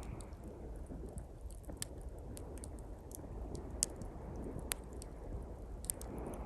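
Small campfire of pine twigs crackling, with many sharp scattered pops, over the steady wash of sea waves on the shore; a wave swells up near the end.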